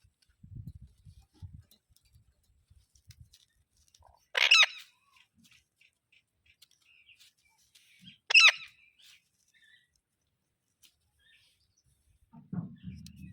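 A green parrot giving two short, shrill screeches about four seconds apart, the first about four seconds in. There are faint low knocks early on and a low rumble near the end.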